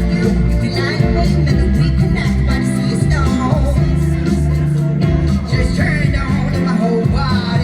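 Live amplified pop-rock song played loud through a concert PA, with a heavy bass line and a sung vocal.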